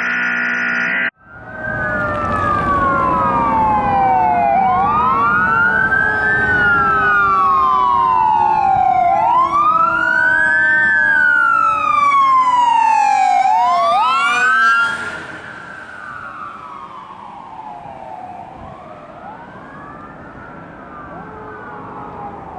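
Fire engine siren wailing, its pitch rising and falling about every four seconds, loud as the engine passes and then suddenly fainter about fifteen seconds in as it moves away. A brief stretch of music cuts off about a second in, just before the siren starts.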